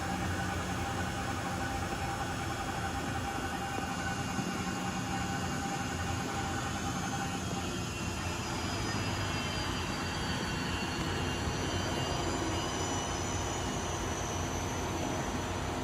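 Hwacheon T130 CNC lathe running with a steady mechanical hum and high whining tones. About halfway through, a high whine dips in pitch and climbs back up.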